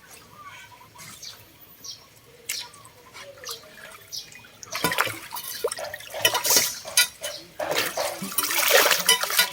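Water splashing at a rain-water drain clogged with leaves, as the wet leaves are pulled out. Faint scattered splashes at first, then much louder, busier splashing about five seconds in.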